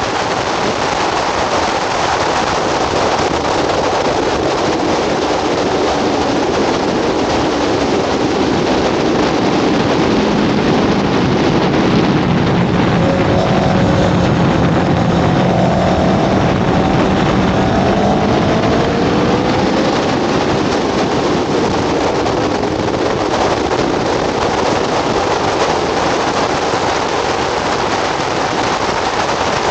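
Kawasaki ZX-10RR's inline-four engine running hard at track speed under heavy wind rush on the microphone. About halfway through, the engine note drops and then climbs again as the bike leans through a corner.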